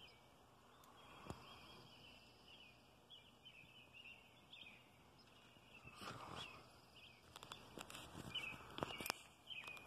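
Faint, scattered bird chirps with a sharp click about a second in and bursts of rustling and clicking handling noise around six seconds in and again near the end.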